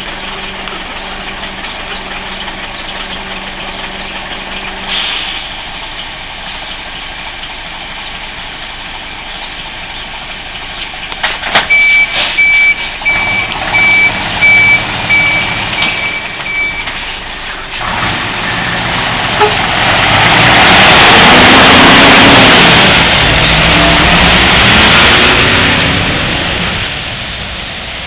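Scania R420 truck's six-cylinder diesel idling, then a reversing beeper sounding a series of evenly spaced beeps for about five seconds. After that the engine is revved up as the truck pulls away, loudest for several seconds before easing off near the end.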